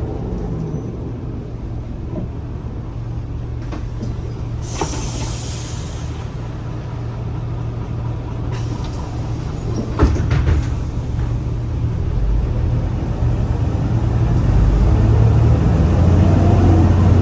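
Scania L94UA city bus's diesel engine running, with a short burst of compressed-air hiss about five seconds in and a sharp knock about ten seconds in. The engine then grows louder, pulling harder in the last few seconds.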